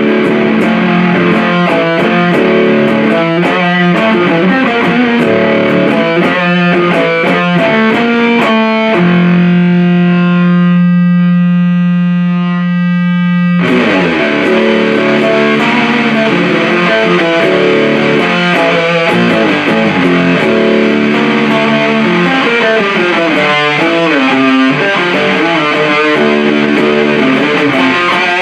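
Electric guitar riffing through a Big Muff-style fuzz pedal, the 77 Fuzz Blender, into an Orange Super Crush 100 amp: a thick, heavily fuzzed tone. About nine seconds in, a chord is left ringing and fading for about four seconds before the riffing comes back in.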